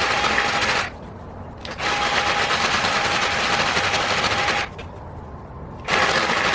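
Die grinder with a square bit grinding down curb rash on an aluminum wheel, run in bursts: it stops about a second in, runs again for about three seconds, and starts once more near the end.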